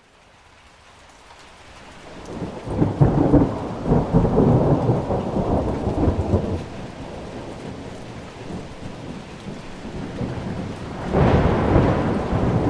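Thunderstorm: steady rain with rolling thunder. It fades in from silence, and a deep rumble builds to its heaviest about three to six seconds in, then eases. A second roll of thunder starts near the end.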